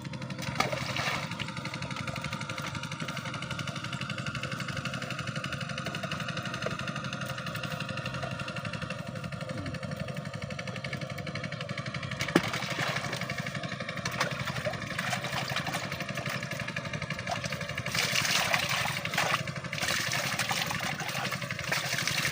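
A small engine running steadily at an even pitch, with a sharp click about halfway through and a few seconds of louder hissing noise near the end.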